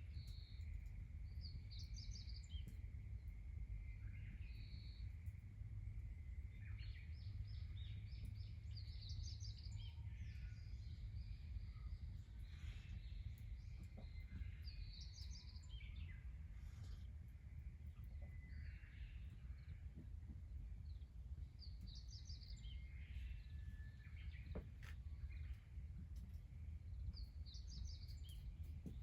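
Birds calling outdoors, one repeating a short, high chirping phrase about every five seconds, over a steady low rumble of background noise.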